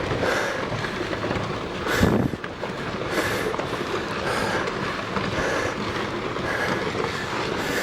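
Rockfall: rocks tumbling and clattering downhill in a continuous rumbling clatter, with one heavier impact about two seconds in.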